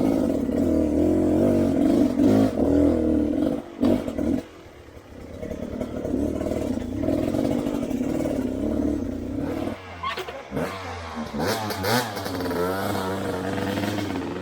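Off-road motorcycle engine running and revving under changing throttle, dropping back briefly about four seconds in, with the pitch swinging up and down near the end.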